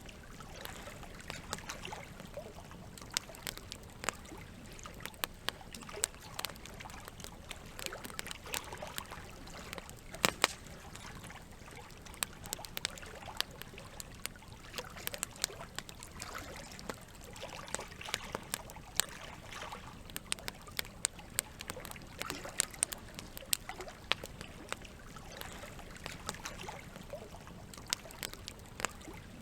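Campfire crackling, with frequent sharp pops over a steady trickle of water.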